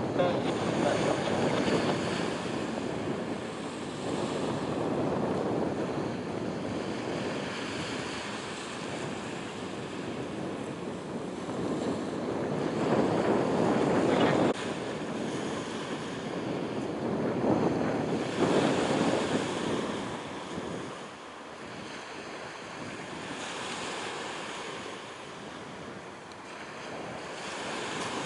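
Wind buffeting the microphone in gusts, a rushing noise that swells and falls every few seconds.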